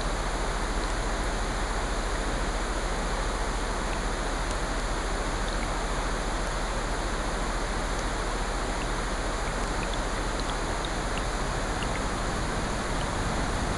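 Steady hiss of rain blended with ocean surf, with faint scattered crackles of a wood fire in a fireplace.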